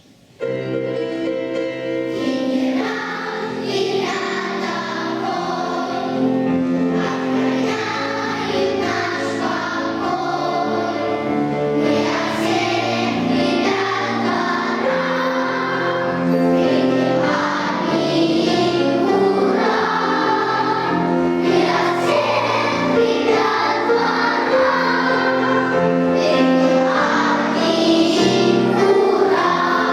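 Children's choir singing a lively song with music behind it. It starts suddenly about half a second in and carries on without a break.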